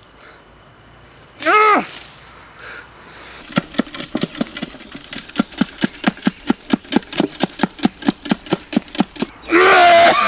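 Farm animal bleating: a single bleat, then a long run of short stuttering pulses at about five a second, then a loud bleat near the end.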